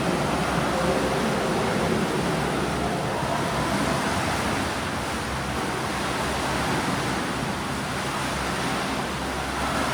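Steady wash of water noise from swimmers splashing through breaststroke drills in a pool.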